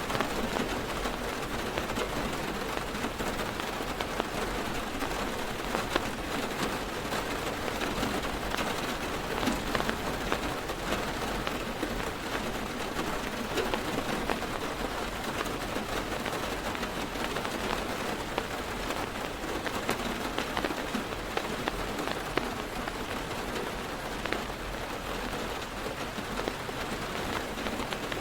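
Heavy rain on a car's roof and windows, heard from inside the parked car: a steady dense patter with many small sharp drop ticks.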